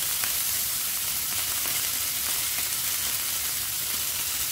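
Chicken tikka skewers sizzling in olive oil in a hot non-stick pan: a steady frying hiss.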